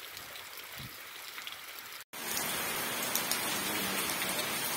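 Rain falling, at first a lighter patter of scattered drops. After a brief cut about two seconds in, heavier steady rain comes in, louder and denser, falling on wet, flooded ground.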